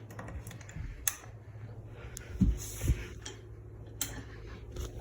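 Harbor Breeze Armitage ceiling fan running: a steady low hum with scattered ticks and a few soft low thumps.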